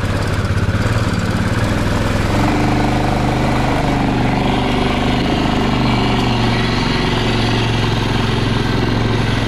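A small motor vehicle's engine running steadily close by, its note shifting upward a little about two seconds in.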